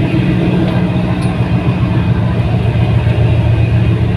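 Fast passenger ferry's engines running with a steady low drone, heard from aboard.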